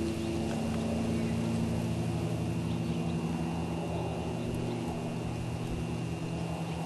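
An engine running steadily with an even, low drone.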